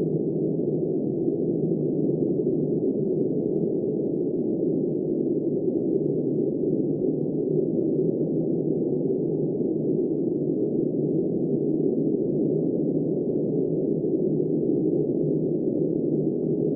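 Steady wind noise: an even, dull rush with no hiss above it and no gusts or other sounds.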